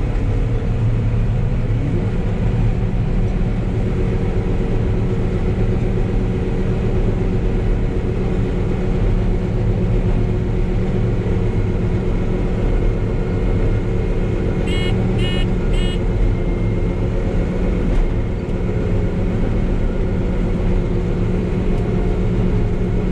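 John Deere 9760 combine running steadily under load in wheat, a constant low engine and threshing drone. Three short electronic beeps from the machine's alarm sound about fifteen seconds in.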